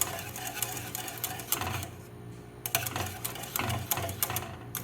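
Rapid, irregular clicks and light clinks of hard objects, several a second, over a steady low hum.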